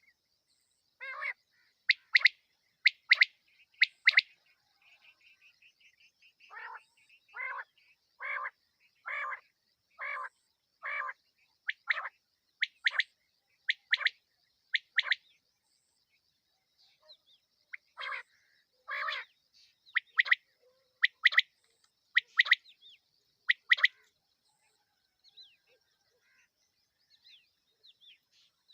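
Female quail (batair) calling, the night call used to lure quail: short calls repeated about once a second, some sharp and high, others lower and hoarser, with a few pauses between runs.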